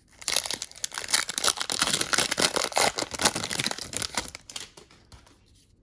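Card pack wrapper crinkling and tearing as a pack of trading cards is opened by hand: a dense crackle of many small clicks that fades out about five seconds in.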